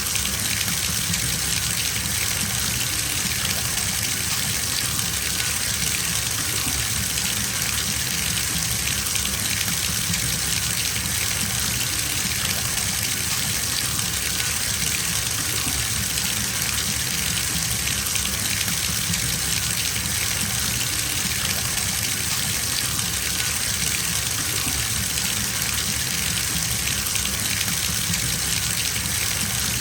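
Water gushing steadily from a tap into a filling bathtub.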